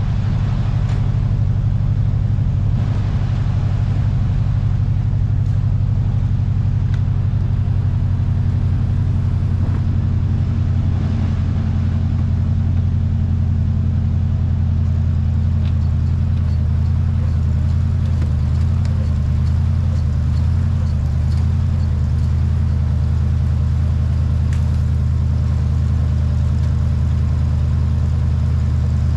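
Truck engine idling steadily, with a slight wavering in its note about two-thirds of the way through.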